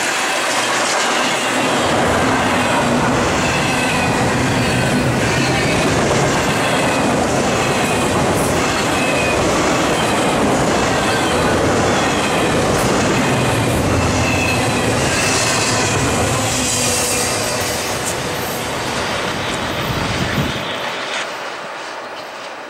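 Double-stack intermodal freight cars rolling past, a steady rumble and hiss of wheels on rail with a short high squeal about every second and a half. About 21 seconds in the low rumble drops away and the sound gets quieter.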